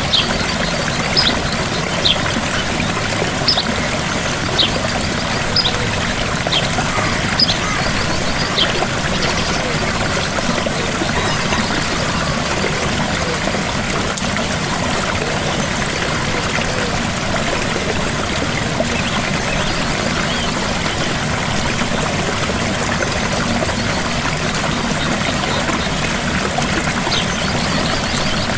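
Gentle waterfall: a steady rush of falling, splashing water. Short high-pitched chirps or plinks sound about once a second over the first nine seconds and again near the end.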